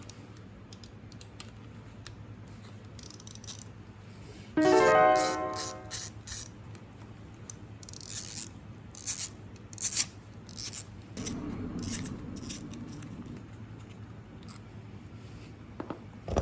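Hand tools working on a motorcycle during an oil change: a short, loud, fast ratcheting buzz about five seconds in, then a run of scattered metallic clicks and scrapes.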